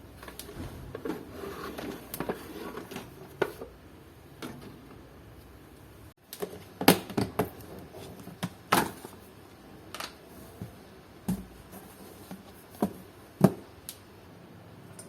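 Kitchen containers and utensils being handled: an irregular series of sharp clicks and knocks, with a break about six seconds in.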